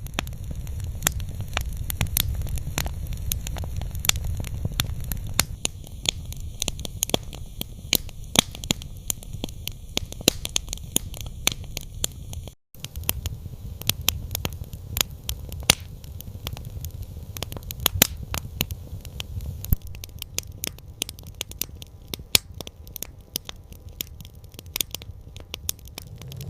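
Campfire crackling, with many sharp irregular pops over a steady low rumble of the fire; the sound drops out for an instant about halfway through.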